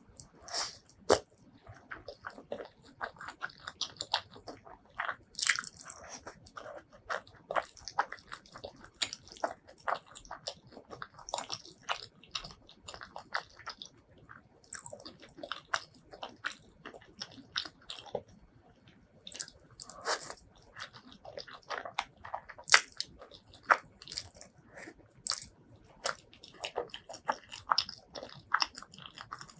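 Close-miked eating: a person biting and chewing crunchy food, with many sharp, irregular crunches and crackles.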